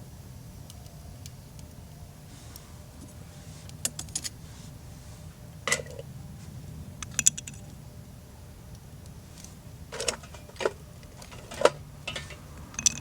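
Metal camp cookware and utensils being handled, clinking in about seven sharp knocks spread unevenly, some ringing briefly.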